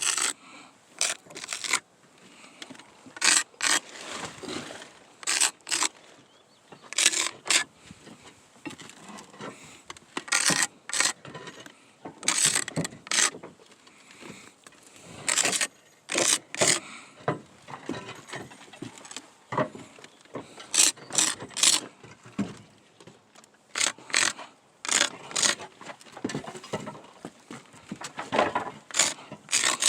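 Roof tiles being pried loose and handled: irregular sharp clinks and scrapes of tile against tile, often in quick clusters of two or three.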